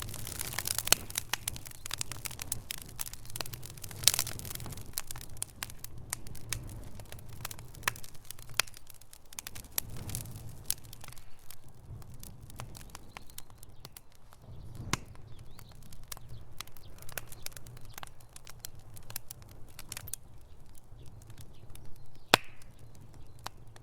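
Wood fire in a fireplace crackling, with many small irregular pops and a couple of louder snaps, over a low steady rumble.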